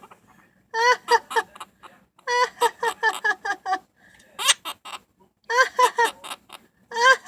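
Quaker parrot imitating laughter: runs of quick, repeated 'ha-ha' notes, about five or six a second, broken by short pauses.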